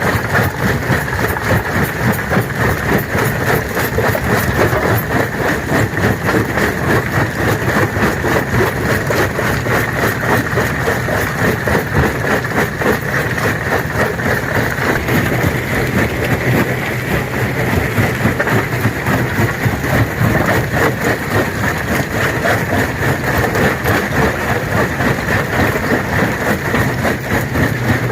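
Stone crusher running: a steady heavy machine drone under a dense, unbroken clatter of rocks cracking and crunching as they are crushed.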